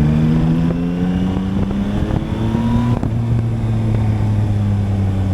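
Yamaha MT-09's inline three-cylinder engine, fitted with an Akrapovič exhaust, pulling hard with its pitch rising for about three seconds. It then drops suddenly at an upshift and runs on steadier at lower revs.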